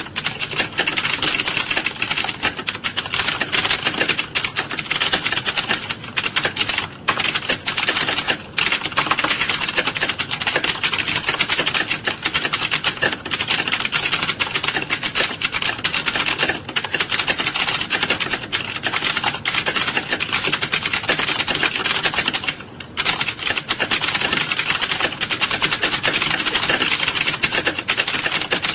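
Many people typing at once on keyboards in a classroom: a dense, unbroken clatter of overlapping key clicks, thinning briefly a few times.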